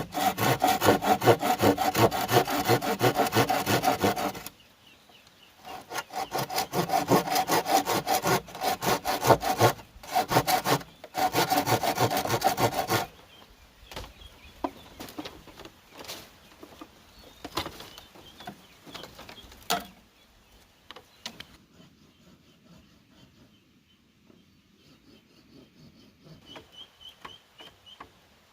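Bamboo being sawn by hand: fast, rhythmic back-and-forth saw strokes in three runs, then scattered light knocks and clicks for the rest of the time.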